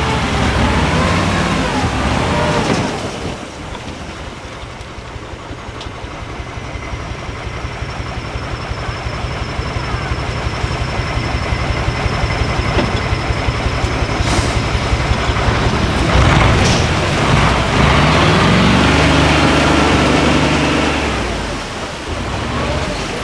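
Engine of a 6x6 Ural prototype off-road trial truck, revving and labouring under load. It revs high at first, drops about three seconds in, builds slowly with a fast pulsing, and revs up again near the end.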